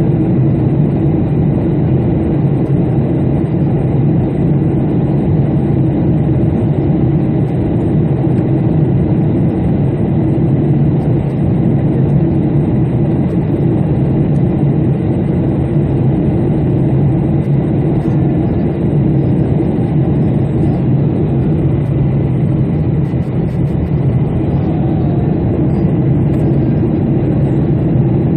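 Airplane engine noise: a steady, loud drone that hardly changes.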